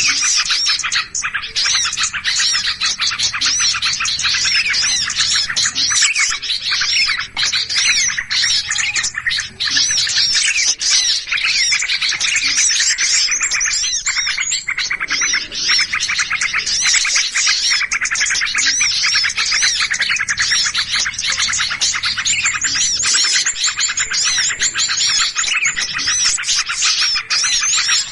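Dense, unbroken chorus of many small birds chirping noisily at once: an agitated-flock recording used as a lure call to draw in small birds.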